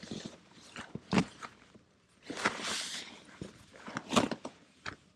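Sleeping bag and pad being handled: rustling nylon, a few sharp clicks as the straps are adjusted, and a short rasp about two and a half seconds in.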